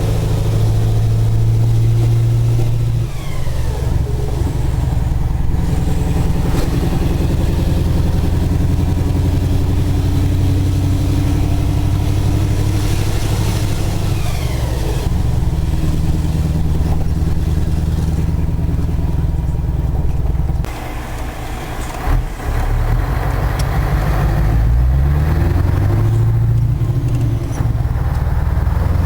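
Scania 143 truck's 14-litre V8 diesel running under load, its pitch stepping between steady stretches. About two-thirds through the engine note drops away for a couple of seconds, then climbs again as the truck pulls up through the revs.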